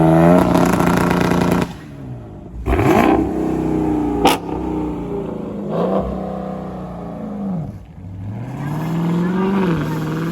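Muscle-car V8 engine revving again and again, its pitch dropping and climbing back up several times, with abrupt cuts between clips.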